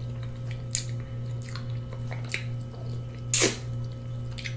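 Close-miked chewing of sauced oxtail meat: wet mouth smacks and squishes about once a second, the strongest about three and a half seconds in, over a steady low electrical hum.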